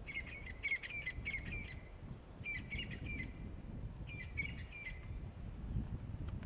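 Bird song: three short phrases of quick, high chirping notes, each note a short falling slur, with a low rumble underneath.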